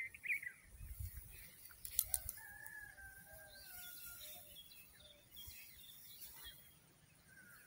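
A bird's call: a short chirp at the start, then one long held call lasting nearly two seconds and sinking slightly in pitch, with fainter chirps after it. A few sharp clicks come about two seconds in.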